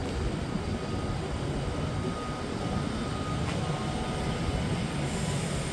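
Class 390 Pendolino electric train at the station platform: a steady low rumble with a faint high hum over it, and a single click about three and a half seconds in.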